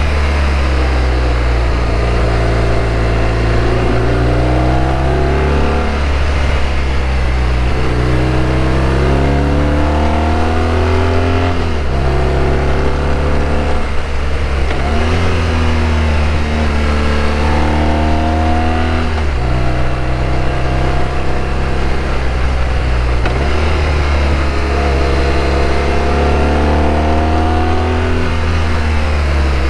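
BMW R1200RT flat-twin boxer engine heard from the bike while riding, its revs climbing and falling back several times, some climbs ending in a sudden drop, over steady wind noise.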